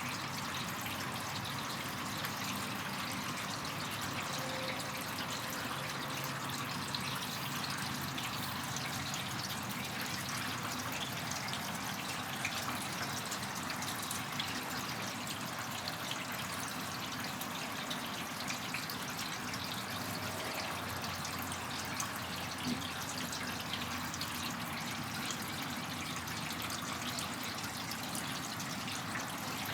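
Slow, steady rain falling with no wind, an even hiss sprinkled with many small drop ticks.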